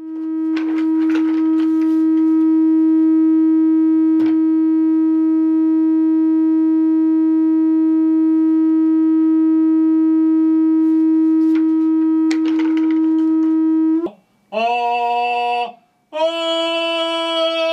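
Saxophone holding one long steady note for about fourteen seconds, then playing two shorter notes, the first lower and the second back near the first pitch.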